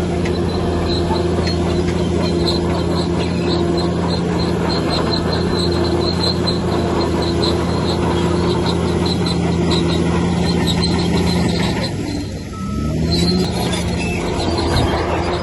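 Bulldozer's diesel engine running steadily under load, with its steel tracks squealing rhythmically several times a second. About twelve seconds in, the engine briefly drops off, then revs back up.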